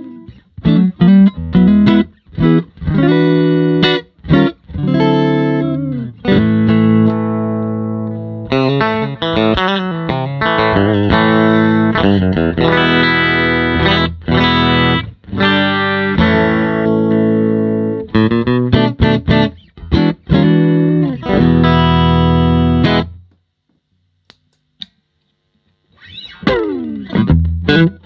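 Electric guitar (Fender American Performer Stratocaster) played through a Fender Silverface Bassman Ten tube amp: strummed chords and ringing, sustained notes with a slightly driven edge. Playing stops for about three seconds near the end, then resumes with a sliding note.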